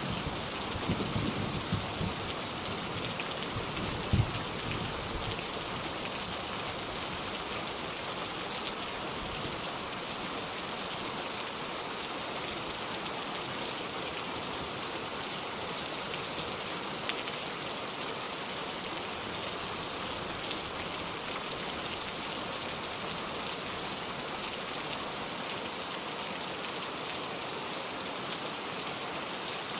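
Steady rain, a dense even patter of drops, with a few low rumbles in the first few seconds.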